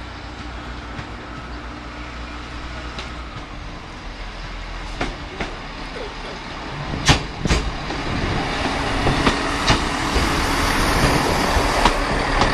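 A Class 158 diesel multiple unit running into the station, its engine noise growing louder as it nears. From about five seconds in come several pairs of sharp clacks, about half a second apart, as its wheels cross rail joints.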